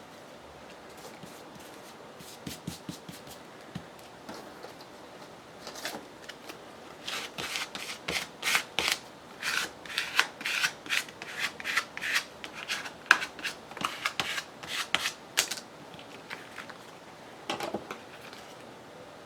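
Paper rubbed by hand in quick back-and-forth strokes, a few scattered at first, then a steady run of about two strokes a second for some eight seconds, and one last rub near the end.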